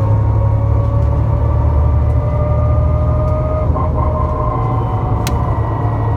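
Bus running with a bad axle: a loud whine over the low rumble of the drive, its pitch creeping slowly upward, then breaking off a little past halfway and carrying on at a lower pitch. A single sharp click near the end.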